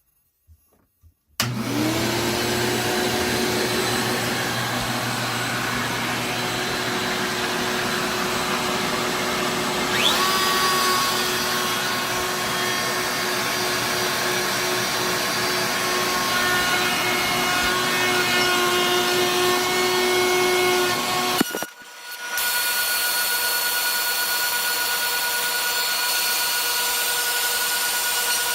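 A shop vacuum and a CNC router running together with a steady machine noise. It starts suddenly about a second and a half in, after near silence. A short rising whine comes about ten seconds in, and about twenty-two seconds in the noise breaks off briefly and comes back with a different steady tone.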